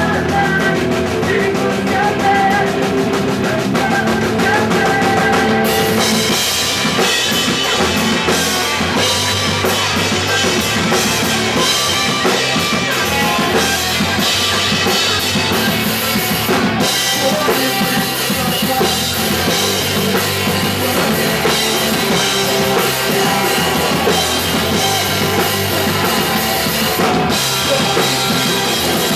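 Live punk rock band playing. Sustained guitar chords ring for the first few seconds, then the drum kit and cymbals come in with the full band about six seconds in.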